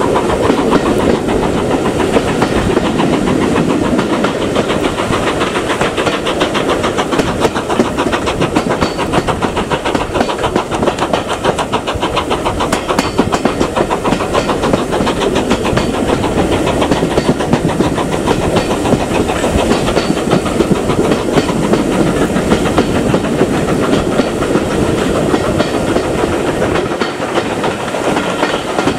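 Steam-hauled train running on the rails, its wheels clattering over the rail joints in a steady, loud rhythm.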